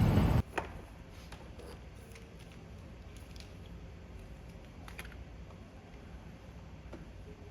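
Wind noise on the microphone cuts off abruptly near the start. It is followed by a quiet room with a few faint, irregular clicks and taps.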